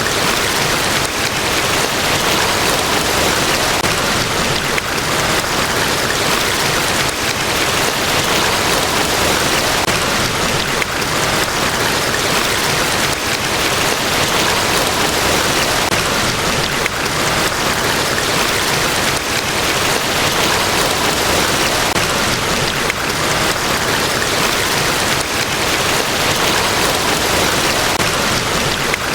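Niagara Falls, a large waterfall: falling water rushing in a loud, steady, unbroken wash of noise.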